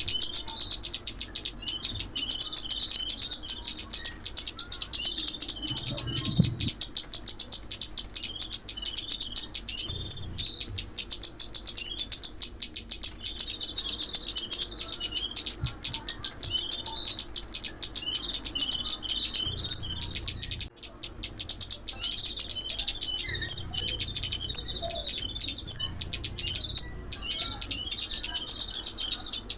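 Recorded song of the Vietnamese 'chim ốc mít', a small sunbird: a continuous stream of rapid, high-pitched twittering chirps with only brief pauses, played as a trapping lure.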